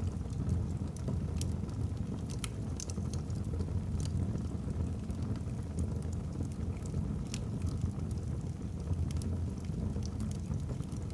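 Wood fire burning in a fireplace: a steady low rumble of the flames with scattered, irregular sharp crackles and pops from the logs.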